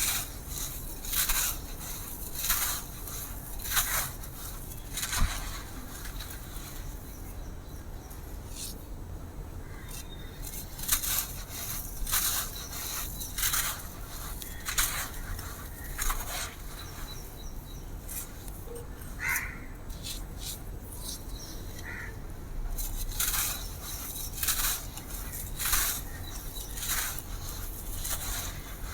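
Dry, crumbly blue sand-cement texture being crushed and crumbled by hand, a series of short, crisp crunches about once a second, with a pause of a few seconds early on.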